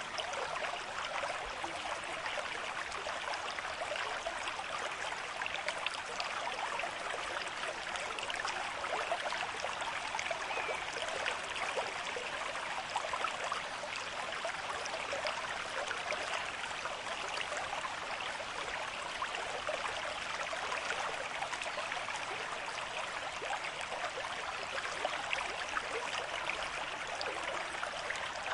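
River stream with moderate flow: water running and babbling steadily, an even, unbroken rush.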